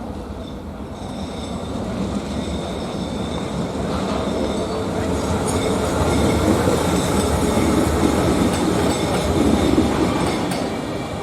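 A train passing on the rails, its wheel and running noise growing louder to a peak about two-thirds of the way through and easing near the end, with a thin high wheel squeal over it.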